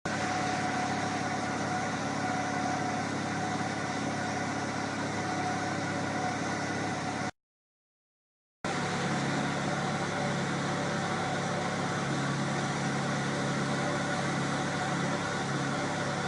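Petrol engine running on a butanol–gasoline blend, holding a steady, constant speed. It cuts out abruptly about seven seconds in, and after just over a second of silence it comes back unchanged.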